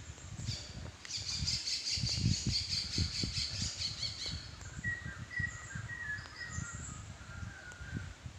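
Forest birds calling: a rapid, high pulsing call for about three seconds, then a few short whistled notes. Beneath them run the low, uneven thumps of footsteps along the trail.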